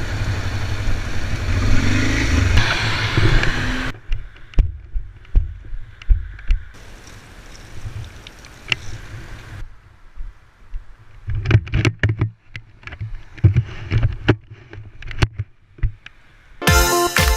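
Honda Transalp motorcycle on the move: wind rushing over the microphone with a low engine drone for about four seconds, then a quieter stretch of irregular low thumps and knocks.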